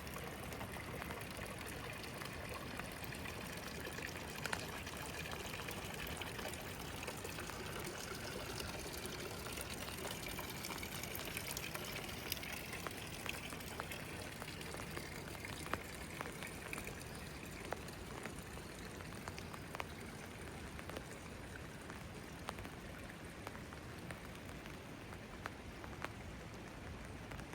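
Steady rain with scattered drips, and water running and pouring, a little stronger in the middle stretch.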